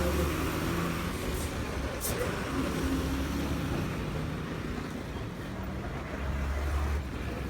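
Motorcycle running steadily while being ridden, its engine under a steady rush of road and wind noise.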